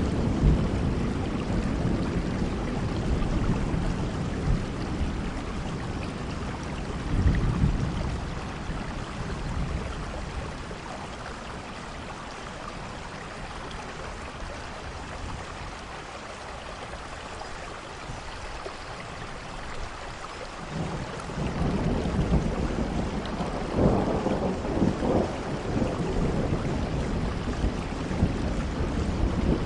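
Steady rainfall with low, rolling rumbles of thunder. The rumbling dies away for a while in the middle and builds again about twenty seconds in.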